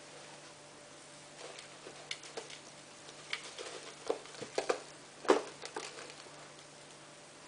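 A dozen or so light, irregular clicks and taps of things being handled, the loudest about five seconds in, over a faint steady hum.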